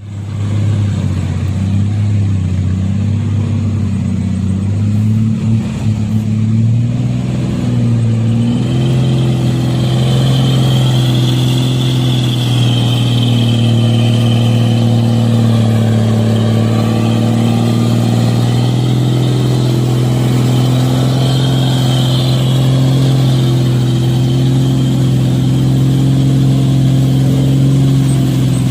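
Heavy truck's engine running under load, its note shifting upward a couple of times in the first several seconds, then holding steady.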